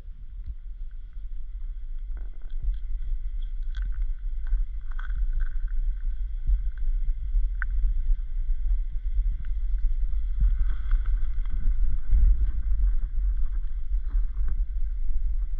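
Wind buffeting the microphone: a steady, fluttering low rumble, with a few light knocks from the boat.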